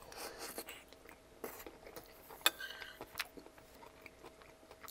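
Close-miked chewing of a mouthful of pasta in meat sauce, with irregular soft wet smacks and mouth clicks, and a few sharper clicks around two and a half and three seconds in.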